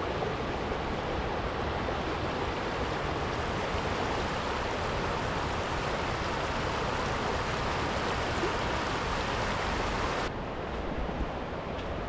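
Steady rush of water. About ten seconds in it drops slightly and its highest hiss cuts off suddenly.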